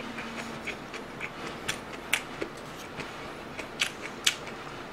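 Close-miked chewing of food, with wet mouth sounds and a few sharp clicks: two about two seconds in and two near the end.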